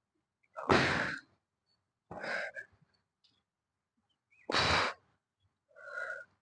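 A woman's breathing close on the microphone: four breaths of about half a second each, the ones about a second in and about four and a half seconds in loudest, like sighing exhales.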